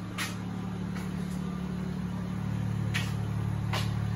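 Car engine idling: a steady low hum, with a few faint clicks scattered through it.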